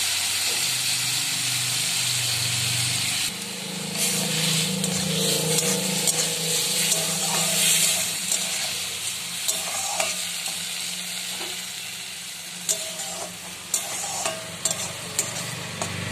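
Maggi noodles, vegetables and scrambled egg sizzling in a wok while a steel spatula stirs and scrapes them around the pan. The hiss drops a little about three seconds in, and the spatula clicks and taps against the pan several times near the end.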